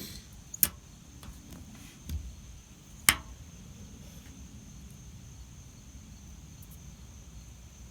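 Two sharp clicks about two and a half seconds apart, with a soft thump between them, over a faint steady hiss and a thin high tone.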